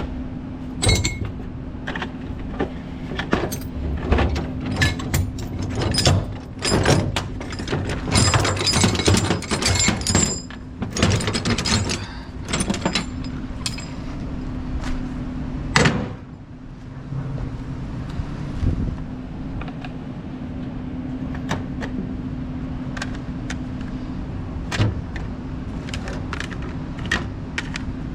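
Metal tie-down chains and binders clanking and rattling as they are handled, busiest in the first half with a sharp knock midway. A steady hum runs underneath.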